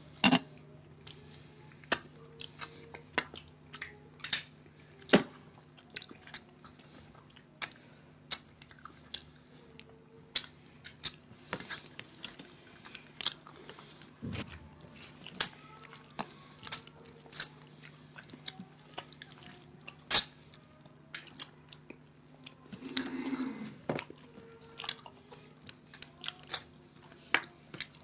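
Close-miked eating sounds of two people chewing rice and fish curry eaten by hand: wet chewing and mouth smacks with frequent sharp, irregular clicks. A steady low hum runs underneath, and there is a short louder stretch a few seconds before the end.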